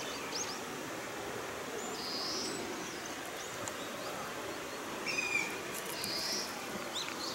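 Outdoor ambience with wild birds calling: short high chirps and whistles, several times over a steady background hiss.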